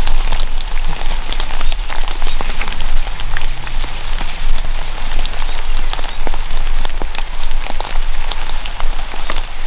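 Steady rain falling, with many individual drops striking close by as sharp little hits throughout.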